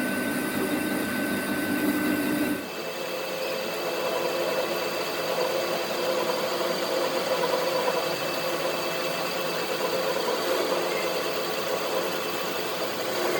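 Steady mechanical running hum from machinery, with a few constant tones. It changes abruptly about two and a half seconds in, to a thinner, steady sound.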